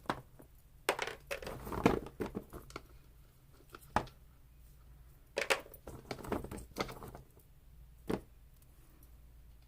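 Paper rustling and small hard items clicking and knocking as craft supplies are rummaged through by hand, in irregular short bursts with a few sharper knocks.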